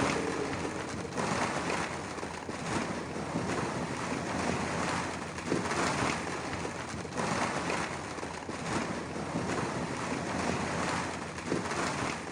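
A dense rushing clatter of very many small balls rolling and pouring together, rising and falling in surges and fading out near the end.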